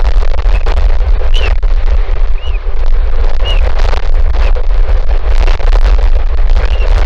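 Strong wind buffeting the microphone, a loud steady low rumble with gusts. Brief high chirps of a bird come through it about four times.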